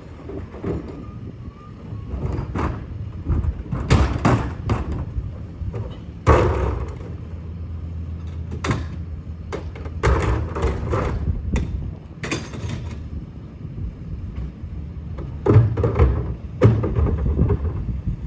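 Garbage truck running, with a low rumble and about a dozen bangs and thuds spread unevenly through it, several of them close together.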